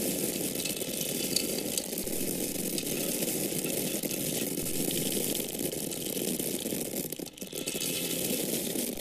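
Grains of corn pouring and falling in a continuous stream, a dense rattling patter of many small kernels striking one another and a surface, with a brief break in the flow a little after seven seconds.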